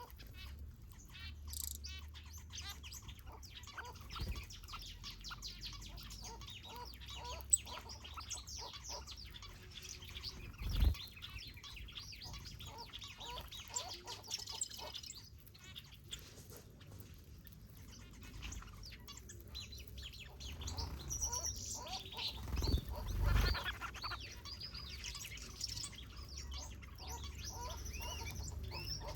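A mixed group of aviary finches and softbills chirping and calling, many short overlapping chirps and trills. Two brief low thumps come about eleven and twenty-three seconds in.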